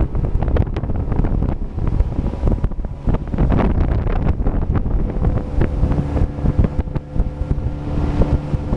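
Motorboat under way, its engine running under heavy wind buffeting on the microphone along with the rush of water; a steady engine hum comes through more clearly in the last few seconds.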